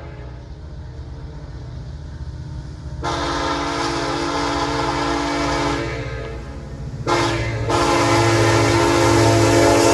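Diesel freight locomotive's multi-chime air horn: a long blast about three seconds in, then a short blast and another long one near the end, in the pattern of the grade-crossing signal. Under it the low rumble of the locomotives' diesel engines grows louder as the train approaches.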